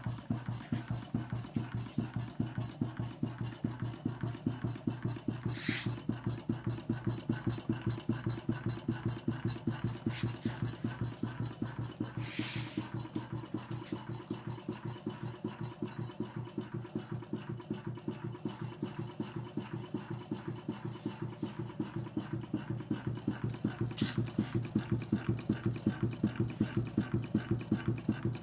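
Replica Stirling hot air engine running steadily, with an even rhythmic beat of about four strokes a second. Three brief sharper hisses or clicks stand out over the beat.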